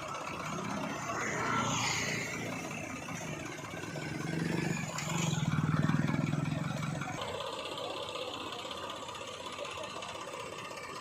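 Heavy diesel engine running, swelling to a louder low rumble around the middle before settling to a steadier note.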